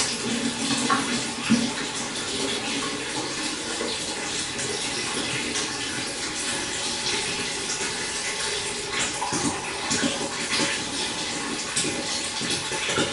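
Water running and splashing steadily into a pond, with small splashes here and there.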